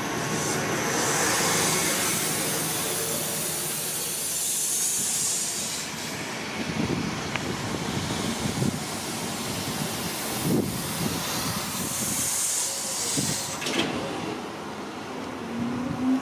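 Enshu Railway electric train passing close by: wheels running on the rails with a steady rushing hiss and a few sharp clacks over the rail joints. Near the end a rising whine sets in as another train approaches.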